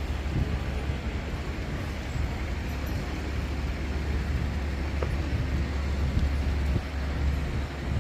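Steady low rumble of vehicle traffic with an even hiss of street noise.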